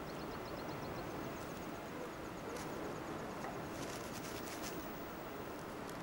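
Faint rapid trills of high ticking bird notes over a steady outdoor hiss. One trill fades out about a second in, and a second, higher trill runs from about a second and a half to three seconds. A few faint clicks come near four seconds.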